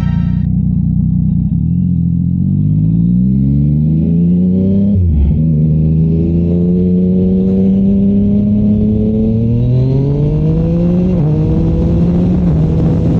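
Yamaha MT-09's inline-three engine, fitted with a Shark Street GP exhaust, accelerating hard. It rises in pitch, drops with an upshift about five seconds in, climbs again through the next gear, shifts once more near the end and then holds a steady note.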